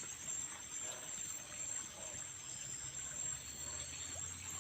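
Steady high-pitched insect chorus, crickets or similar, over a faint even hiss.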